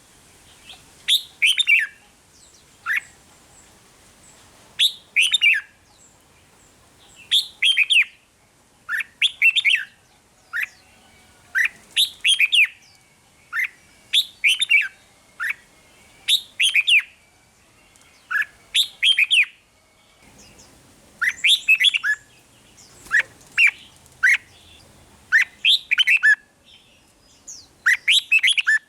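Red-whiskered bulbul singing short, bright chirping phrases of a few quick up-and-down notes, repeated every second or two.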